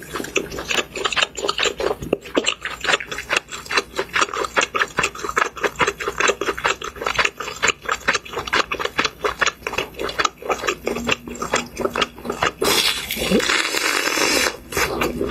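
Crisp crunching of a breaded fried pork cutlet being bitten and chewed, several sharp crunches a second. About thirteen seconds in, a steadier rasping noise for a second or two.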